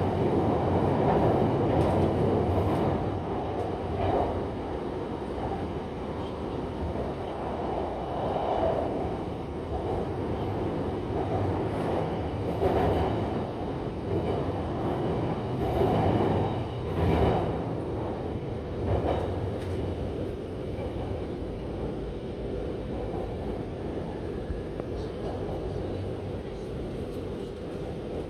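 Shanghai Metro Line 9 train running between stations, heard from inside the carriage: a continuous rumble of wheels and traction motors with several louder swells, easing to a quieter, steadier run in the last third.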